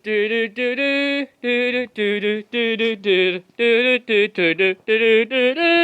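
A single voice singing a melody in short, separate syllables, the pitch stepping from note to note.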